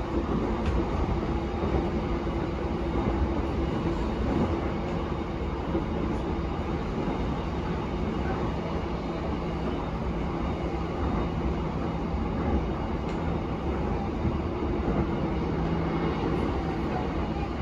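Interior running noise of a JR East E233-7000 series electric train travelling at steady speed: a constant rumble of wheels on rail with a steady low hum under it.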